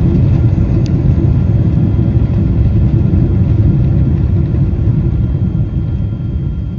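Boeing 777-200 cabin noise: a loud, steady low rumble from the engines and airframe, with faint steady tones above it, easing off slightly near the end.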